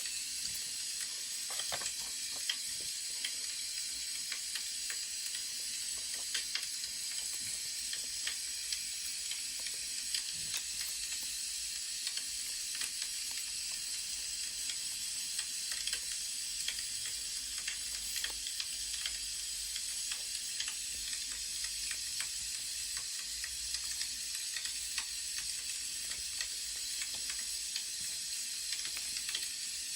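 Wood fire crackling: a steady hiss with frequent small pops.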